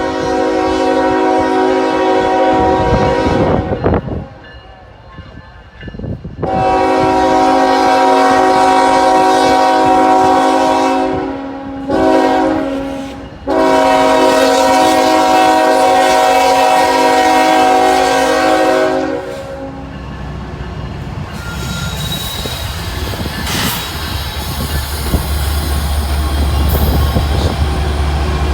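Freight locomotive's multi-chime air horn sounding the grade-crossing signal: two long blasts, a short one and a final long one, the signal of a train approaching a road crossing. After the last blast the train passes with a steady rumble of engine and wheels that grows deeper and louder near the end.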